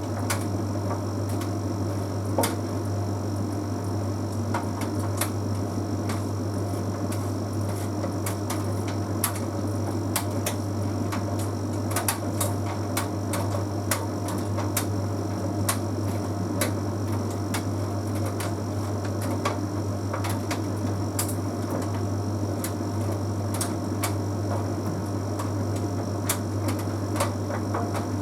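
Bosch Series 6 heat pump tumble dryer running mid-cycle, with a steady low hum and irregular light clicks and taps as the load tumbles in the drum.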